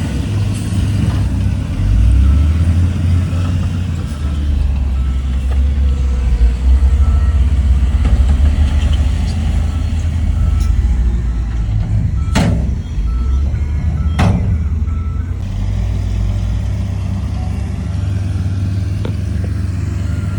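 The heavy diesel engine of earthmoving equipment runs low and steady, while a reversing alarm beeps at an even pace from a few seconds in until past the middle. Two sharp bangs come about two seconds apart, past the middle.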